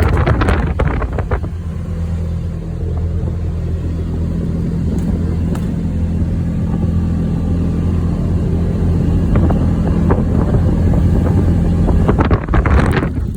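Polaris vehicle's engine running at a steady speed, with wind buffeting the microphone at the start and again near the end.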